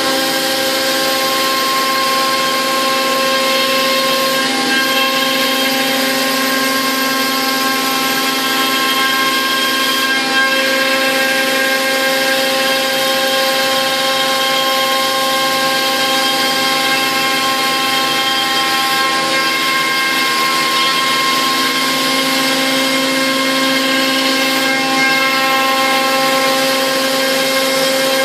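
Biesse Rover 24 CNC woodworking machining centre running steadily, a whine of several steady tones over a noisy hum, with some tones dropping out and returning now and then.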